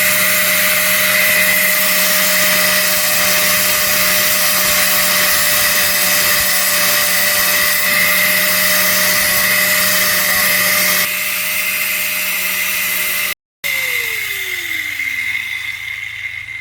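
Small electric power tool motor running at a steady speed with a high whine. Near the end it is switched off and winds down, its pitch falling as it fades.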